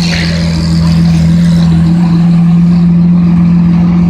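Car engine running at a steady speed, a constant loud drone that holds one pitch throughout.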